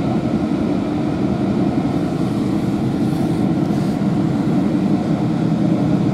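Steady rumble of a passenger train coach running along the rails, heard from inside the carriage.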